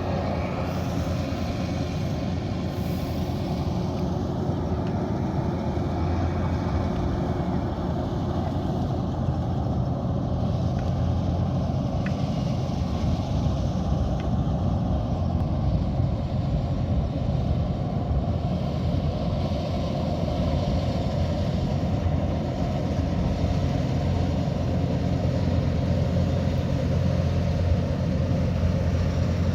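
Kubota DC108X combine harvester running steadily at work: a constant diesel engine drone under the broad whir of the machine.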